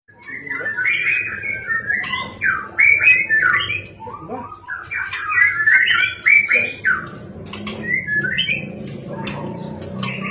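A bird chattering in quick, jumbled chirps and squawks, in two long bursts and then a shorter phrase near the end, over a faint low hum.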